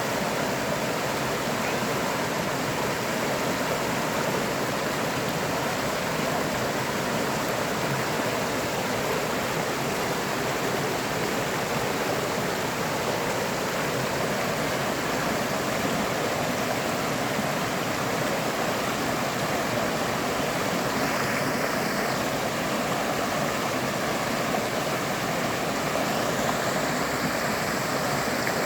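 River water flowing steadily, a constant even rush of running water.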